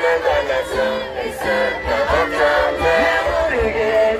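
Loud live pop music with many voices singing together over a pulsing beat, played over a concert PA.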